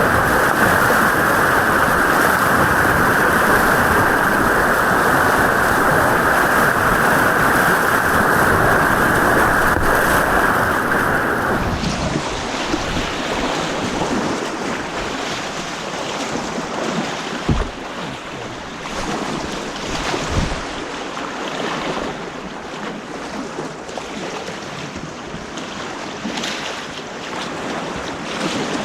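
Rushing white water of an artificial white-water course heard on an action camera, with a steady roar that sounds muffled for the first twelve seconds, then changes suddenly to a clearer, slightly quieter rush. Two short knocks sound a few seconds apart in the second half.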